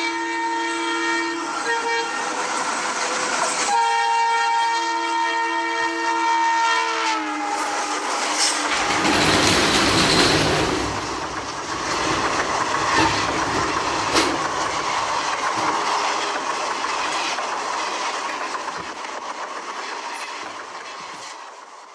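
Train horn sounding twice, a chord of several tones, the second blast dropping in pitch as the train passes. Then the rumble and clatter of the passing train, fading away near the end.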